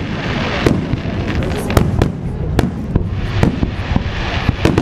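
Fireworks display: aerial shells bursting in an irregular string of sharp bangs, several a second, over a continuous low rumble and hiss.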